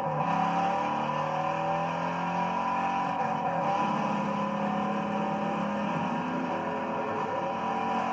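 V8 muscle-car engines running hard at speed, several engine notes rising and falling as the cars accelerate and ease off.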